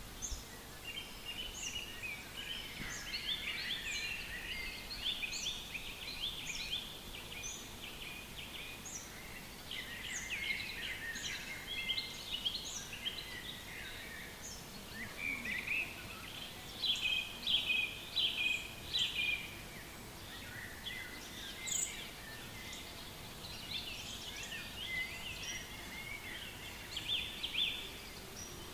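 Several songbirds singing together in a forest: overlapping chirps and trills, with short high notes repeated throughout, over a faint steady background hiss. The song swells louder about two-thirds of the way through.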